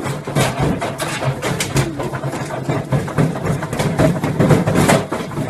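Washing machine running on a trampoline, shaking and bouncing so that it knocks and rattles rapidly and irregularly over a steady low motor hum.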